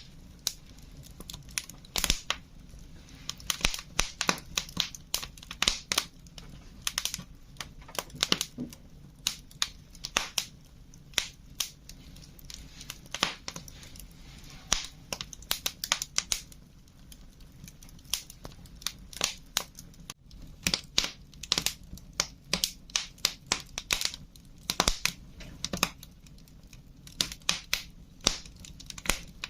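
Wood fire crackling: irregular sharp pops and snaps, sometimes several in quick succession, over a steady low rumble.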